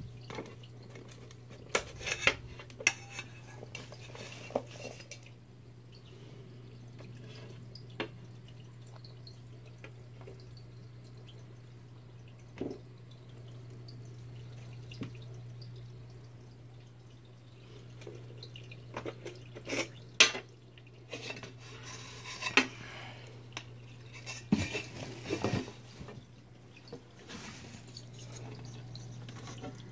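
Scattered clinks, taps and knocks of metal and glass as an LED floodlight is handled and moved into place over an aquarium. Water drips faintly under a steady low hum.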